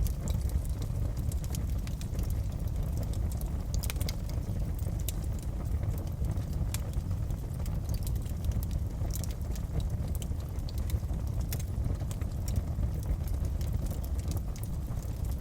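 Wood fire burning in a fireplace: a steady low roar of flames with irregular sharp crackles and pops throughout.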